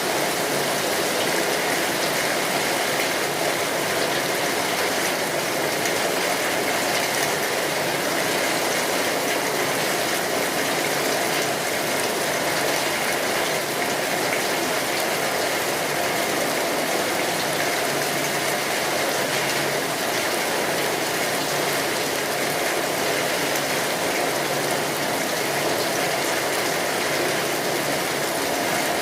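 Steady heavy rain pattering on a tin roof, a dense, even hiss of drops.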